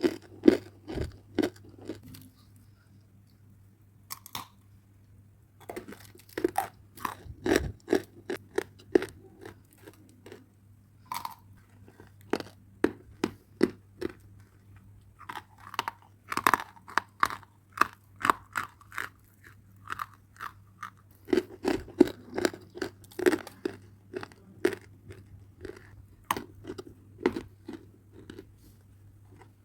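Close-up crunching and chewing of dry red clay: crisp bites in quick runs of crackles, broken by short pauses about two and ten seconds in.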